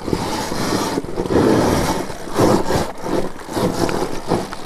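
Dirt bike being ridden over a rough, rocky trail section, a loud uneven noise that swells and drops every half second or so as it works over the obstacle.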